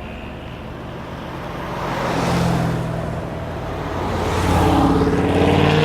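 Corvette C6 Z06's 7.0-litre LS7 V8 exhaust running, swelling about two seconds in, then getting louder with the pitch climbing under acceleration near the end.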